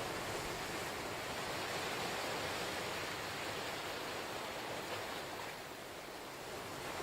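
Ocean surf washing ashore, a steady rushing wash that swells and eases slightly, dipping briefly near the end.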